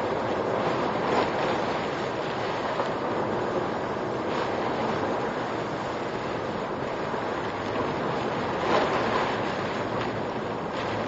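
Steady rushing noise of typhoon wind and heavy rain picked up by a car's dashcam microphone, swelling louder a few times.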